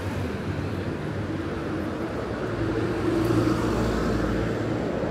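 City street traffic with a steady hum of engines and tyres. A motor vehicle's engine rumbles louder as it passes, from about three seconds in.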